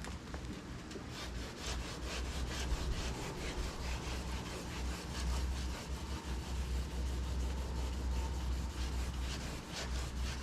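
Paint being wet-sanded by hand with 2000-grit paper on a soft sanding block, rubbing back and forth in rapid, repeated strokes over a steady low hum.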